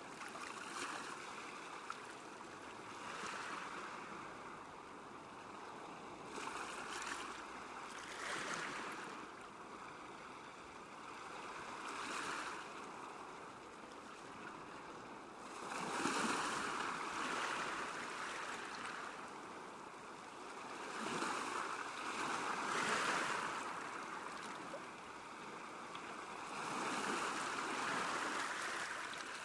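Small waves lapping on a lakeshore: a steady watery wash that swells and recedes every few seconds.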